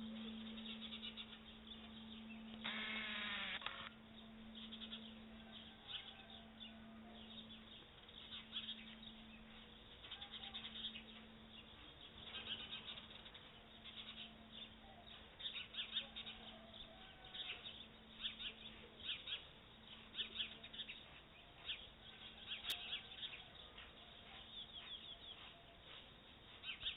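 Birds chirping and singing, with one louder call about three seconds in, over the low hum of a church bell still ringing after its last strike. The hum pulses slowly and fades out about three-quarters of the way through.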